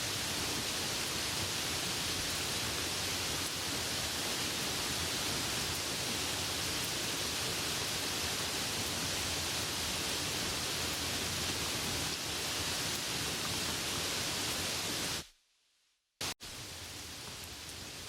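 Steady hiss of rain falling. About fifteen seconds in it cuts out abruptly to near silence for about a second, then comes back a little quieter.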